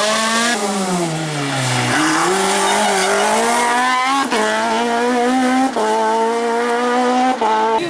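Rally car engine at high revs, including a BMW 3 Series Compact, its pitch falling and climbing and jumping in steps through several gear changes.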